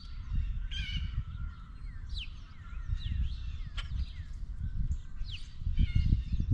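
Wild birds calling: a steady run of short, falling chirps, with a harsher call about a second in and again near the end, over a low rumble.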